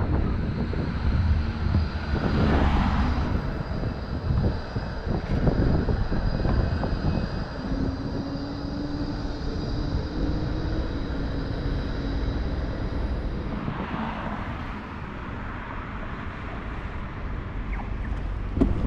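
Riding along on a bicycle: a steady low rumble of wind and tyre noise, with a faint steady high whine that stops a little before the end.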